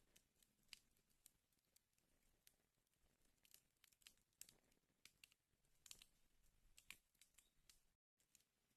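Faint crackling of a wood fire in a fireplace: irregular sharp pops and snaps over a soft hiss, cutting out briefly near the end.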